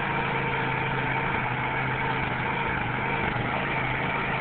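A 2600-watt digital inverter generator running steadily just after an electric start, an even engine hum with no change in speed.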